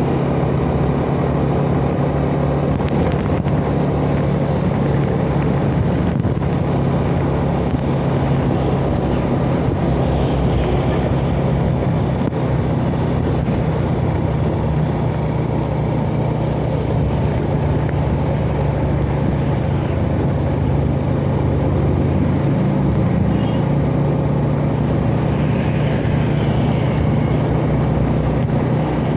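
Yamaha Jupiter Z underbone motorcycle's single-cylinder four-stroke engine running steadily at cruising speed, heard from the rider's seat along with road and wind rush.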